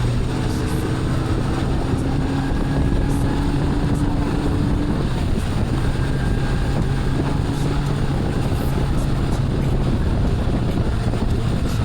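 Outboard motor of a bass boat running steadily at speed, a constant drone with wind buffeting the microphone.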